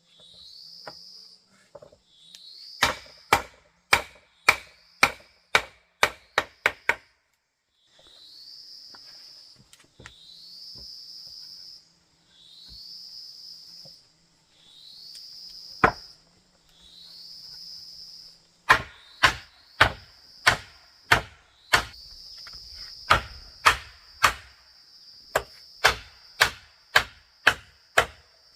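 Runs of sharp blows of a hand tool on wood, about two a second: a short run a few seconds in, a single blow in the middle and a longer run in the second half. Behind them an insect repeats a rising, buzzing call about every two seconds, which turns into a steady drone near the end.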